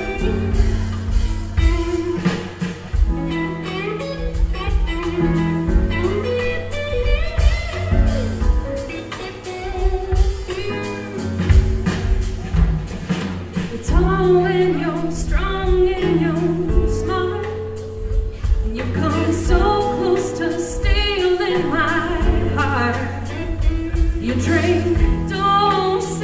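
A woman singing a country song with a band: her voice over a steady drum beat, bass and guitar.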